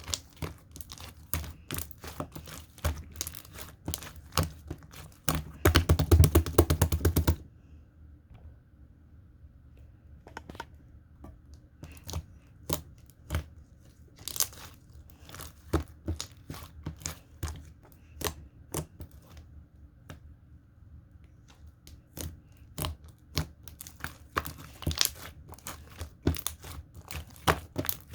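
Slime being squeezed and stretched by hand, giving crackling, popping clicks. There is a dense, loud run of crackling about six seconds in, sparser single clicks through the middle, and busier clicking again near the end.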